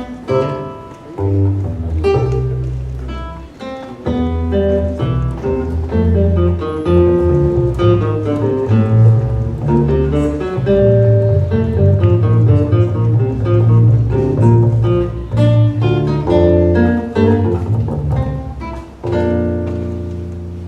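Student instrumental ensemble playing a Baroque-style invention, quick interweaving melodic lines over a low bass line. The piece closes on a final chord struck near the end and left ringing.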